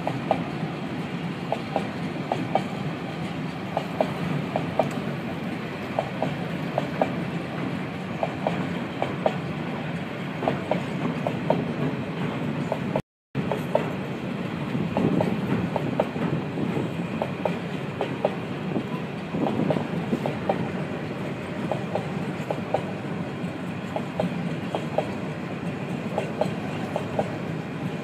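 Container freight train rolling past on flat wagons: a steady rumble of wheels on the rails with a running clatter of wheels over rail joints. The sound cuts out for a moment a little before halfway through.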